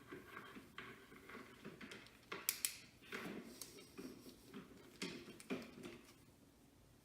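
Faint handling sounds of hair being curled with a clamp curling iron: soft rustling of hair, with a pair of sharp clicks about two and a half seconds in.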